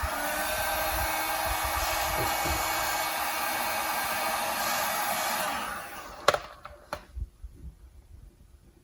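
A hand-held electric hot-air blower runs steadily with a whining motor, warming old decals on fiberglass to soften them. It winds down about six seconds in and is followed by two sharp clicks.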